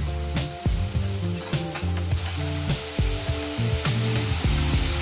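Sliced onion, chillies and tomato sizzling as they sauté in hot margarine in a pan, with scattered clicks as a plastic spatula stirs them against the pan. Background music with a stepping melody plays throughout.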